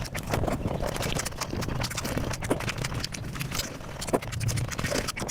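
Mukbang eating sounds sped up five times: chewing, biting and mouth sounds run together into a fast, dense stream of clicks.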